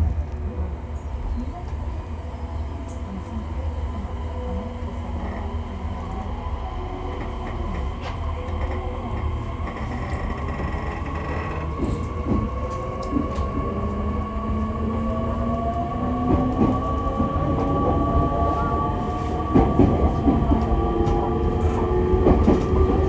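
Interior running sound of a JR East E501 series EMU motor car: a steady low rumble at first, then from about twelve seconds in the VVVF inverter and traction motor whines rise steadily in pitch as the train picks up speed, with wheels clicking over the rails.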